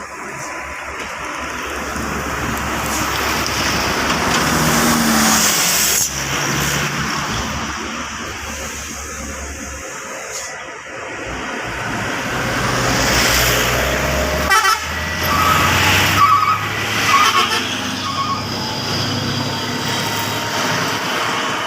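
Heavy trucks passing slowly on a highway descent, the engine and tyre noise swelling twice as they go by. A vehicle horn gives a series of short toots about three-quarters of the way through.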